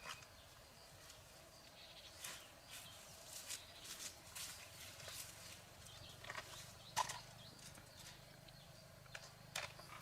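Faint, irregular clicks and knocks of hand tools and small parts being handled during repair work, over a low hum. The sharpest knock comes about seven seconds in.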